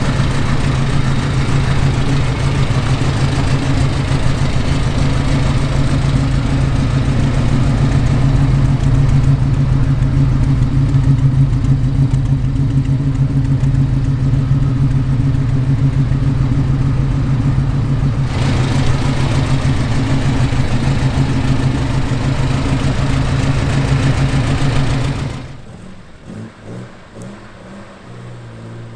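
Car engine running at a steady pitch with road and wind noise, as in a car driving along at an even speed, most likely the 1975 Alfa Romeo GTV. About 25 seconds in it cuts off suddenly to a much quieter engine sound.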